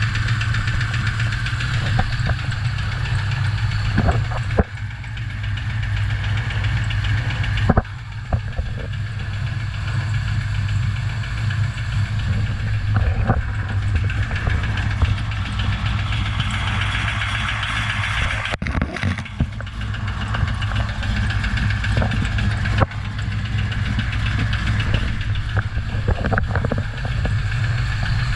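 Craft Performance-built 408 cubic-inch engine running steadily with a knock, the fault the engine is being shown for. The sound breaks off briefly a few times.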